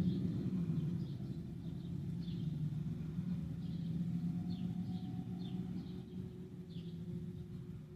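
Diesel farm machinery running with a steady low rumble that slowly fades away, while small birds chirp over it, short calls every half-second or so.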